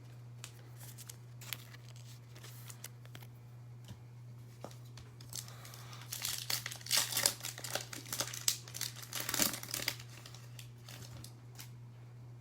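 Foil wrapper of a trading card pack being torn open and crinkled, with scattered rustles and the densest crinkling from about six to ten seconds in. A steady low electrical hum runs underneath.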